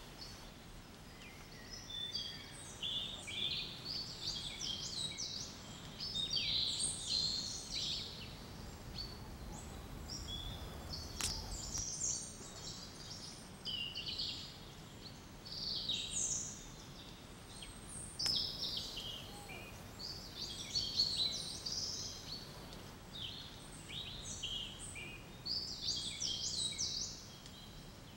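Many small birds chirping and singing together: a dense, overlapping run of quick high chirps and trills with brief pauses between bursts.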